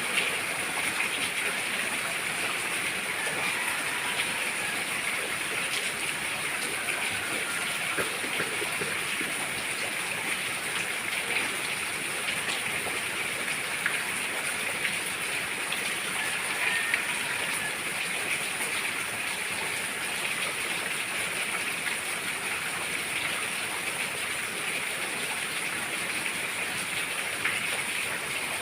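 Steady rainfall, an even hiss that does not change, dotted with scattered sharper drip ticks.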